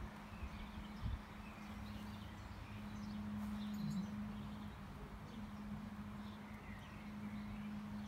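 Faint, scattered bird chirps over a steady low hum, with a brief knock about a second in.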